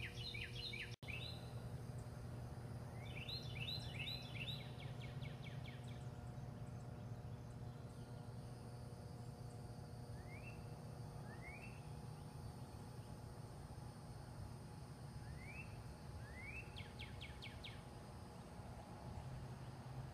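Early-morning bird song: a bird gives a few short runs of quick rising chirps, with single upward notes between them. A steady low hum runs underneath.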